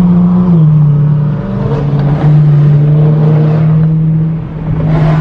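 Car engine running at a steady cruising speed, loud and even, its pitch stepping down slightly about half a second in and then holding steady.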